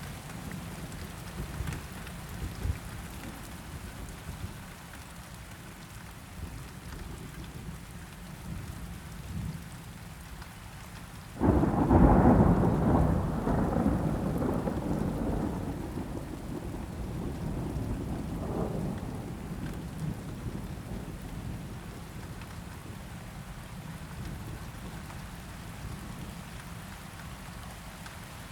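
Steady rain with a sudden clap of thunder about eleven seconds in, rumbling and fading away over several seconds.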